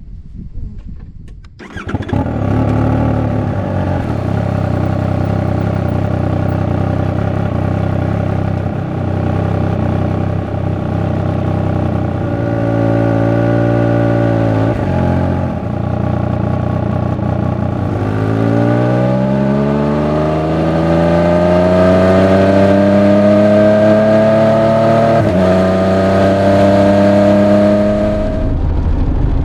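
Triumph Speed Triple 1200 RR's three-cylinder engine and exhaust. The engine comes in abruptly about two seconds in and runs steadily, its pitch falls briefly at about thirteen seconds, then it accelerates with a long rising note, drops once at an upshift near twenty-five seconds and keeps pulling.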